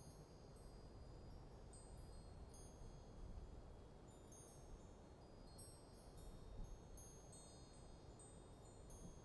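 Metal wind chimes tinkling faintly in a light breeze: many short, high-pitched rings at irregular moments, some overlapping. A faint low rush of wind lies underneath.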